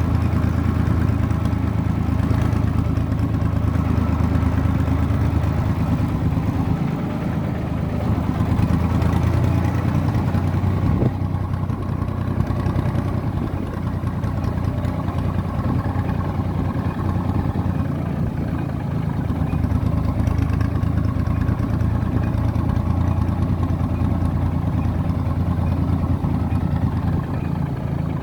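IMT 549 tractor's diesel engine running steadily, with one sharp click about eleven seconds in.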